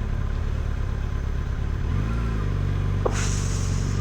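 Motorcycle engine running in city traffic, its note rising about halfway through as it pulls away. A short hiss near the end.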